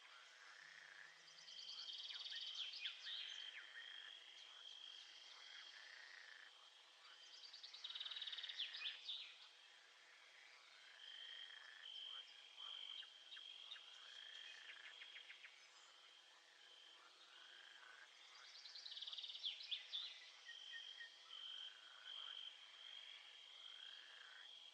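Faint frog chorus: a high trill that keeps breaking off and starting again, and three louder bouts of rapid pulsed croaking about 2, 8 and 19 seconds in.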